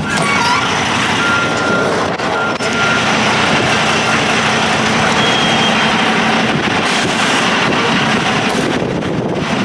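Loud, steady running noise of trucks in a yard. A reversing beeper sounds a few times in the first couple of seconds.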